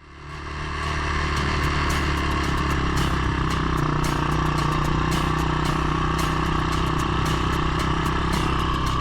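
Small single-cylinder four-stroke engine of a minibike or three-wheeler running at a steady speed, fading in over the first second, with scattered sharp clicks and crackles over it.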